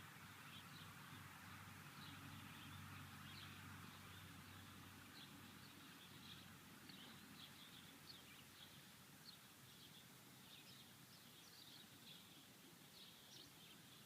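Near silence with faint birds chirping in short high calls throughout, and a low hum that fades out about five seconds in.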